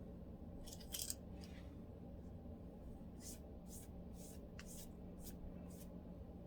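A lice comb scratching through a dry, flaky scalp. There is a scratchy burst about a second in, then six short scrapes at about two a second. A faint steady hum sits underneath.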